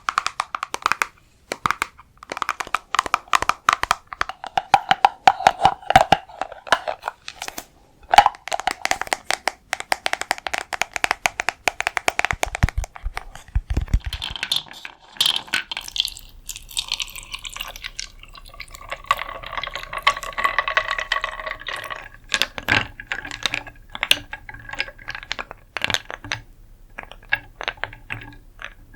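Rapid tapping and clicking on hard objects that ring with faint pitched tones. A brief low thud comes about halfway, after which the tapping moves to an object with a different ring.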